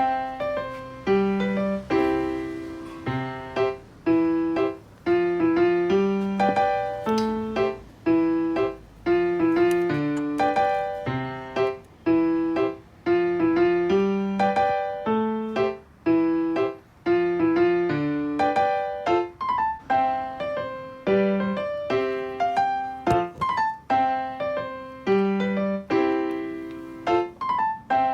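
Background music: solo piano playing a steady melody of struck notes that ring and fade.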